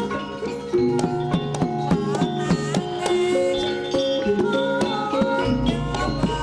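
Traditional Javanese lengger dance music: tuned mallet percussion playing quick, evenly repeated struck notes. A deep low tone comes in near the end.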